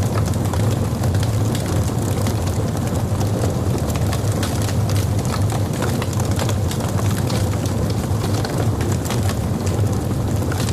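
Logs burning in a fireplace: a steady low roar of flames with frequent sharp crackles and pops.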